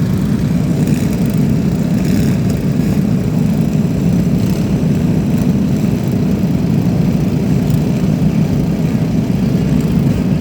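Many lawn mower engines running at once, a steady, loud drone without let-up.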